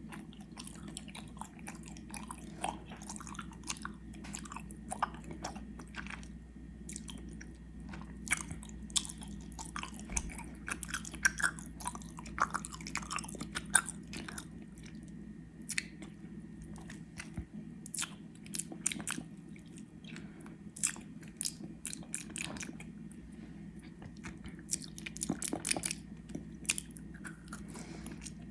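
Close-miked chewing of gummy worms: wet, sticky mouth sounds with many small irregular smacks and clicks as the chewy candy is bitten and worked between the teeth.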